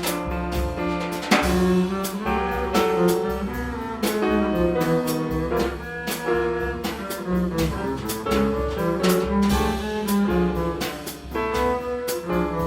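Live small-group jazz featuring the upright double bass, over a drum kit keeping time with a steady run of cymbal strokes.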